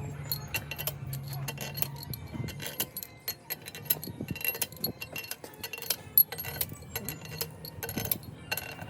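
Metal hand tools clinking and ticking against metal engine parts in quick, irregular knocks, over a low steady hum.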